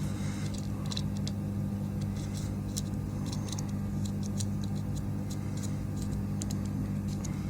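Meter probe tips tapping and scraping on the pins of a power supply circuit board, giving scattered small irregular clicks, over a steady low hum.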